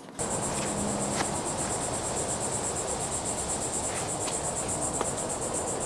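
Insects in the forest trilling steadily in a high-pitched, rapidly pulsing chorus, over a broad background hiss, with a couple of faint clicks.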